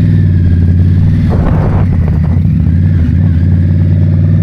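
2022 Indian Scout Bobber's liquid-cooled V-twin engine running steadily under way, with a brief rush of noise about a second and a half in.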